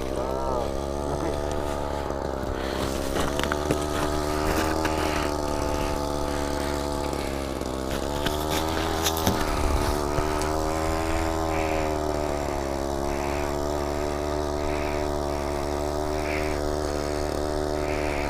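A small engine running steadily, its pitch slowly wavering up and down.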